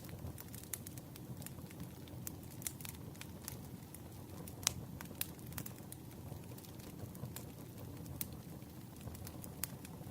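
Campfire crackling: irregular sharp pops of burning wood over a steady low rush of flames, with one louder pop about halfway through.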